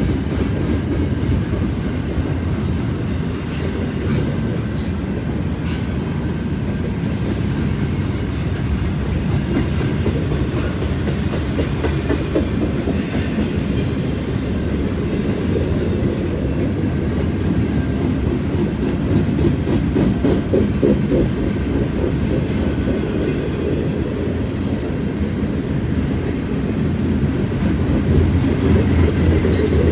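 Double-stack container train rolling slowly past: a steady low rumble and rattle of the well cars' wheels on the rails, with a few sharp clanks a few seconds in and a brief high wheel squeal about halfway.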